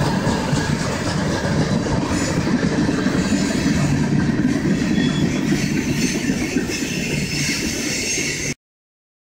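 Freight train cars, mostly tank cars, rolling past on the rails with a steady low rumble of wheels on track as the end of the train goes by. The sound cuts off abruptly near the end.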